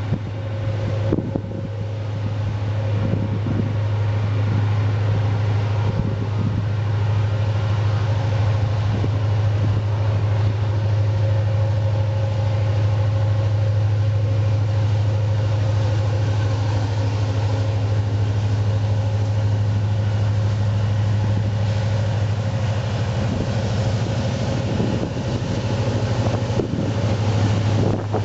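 Union Pacific freight train's diesel locomotives running by, a loud steady low hum with a fainter steady higher tone, building over the first few seconds and then holding.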